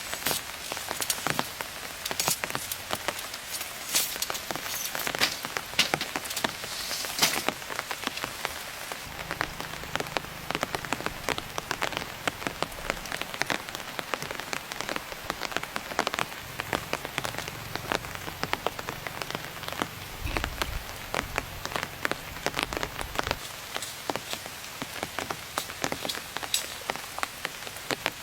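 Rain falling, a dense, irregular patter of drops hitting a surface over a steady hiss.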